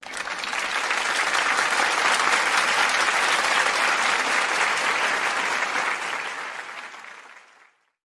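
Audience applause that starts suddenly, holds steady and fades out over about seven and a half seconds.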